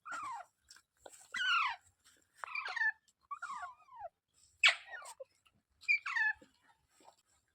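Green ringneck parrots calling: a run of about six short squawks, roughly one a second, each falling sharply in pitch. The loudest and harshest comes just under five seconds in.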